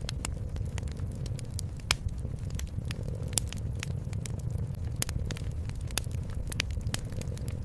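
Wood fire crackling in a fireplace: frequent irregular sharp pops and snaps, a couple louder than the rest, over a steady low rumble.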